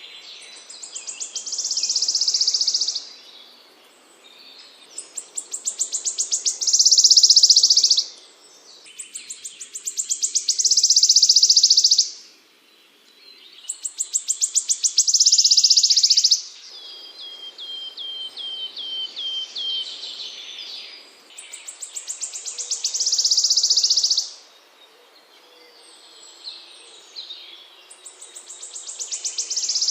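Small songbird singing the same high phrase over and over, about six times: a run of notes that speeds up into a dense buzzy trill. About halfway through, a softer run of separate repeated notes comes between the phrases.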